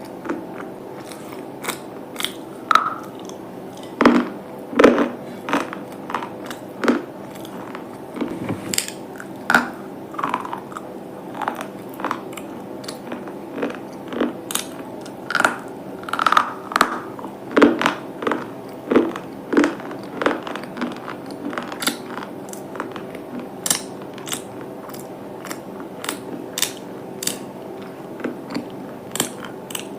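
Someone biting and chewing hard, brittle pieces: a run of sharp, irregular crunches, about one or two a second, over a faint steady hum.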